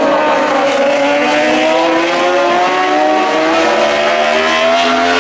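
Several superbike race engines at high revs together, their pitch climbing slowly and steadily as the group accelerates.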